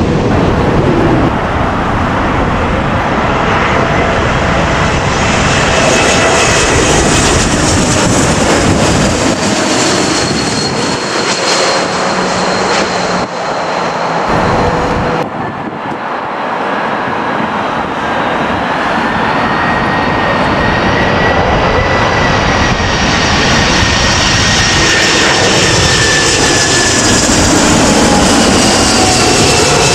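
Jet airliner engines on final approach low overhead: a loud, steady roar with high whining tones that slide slowly in pitch. The roar dips briefly about halfway through, then builds again.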